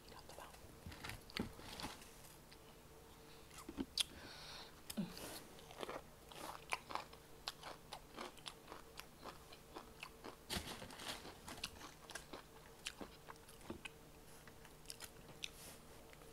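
Close-miked eating: bites into fried chicken taken from a plastic fork, with crunching and wet chewing made up of many small, irregular clicks and crackles.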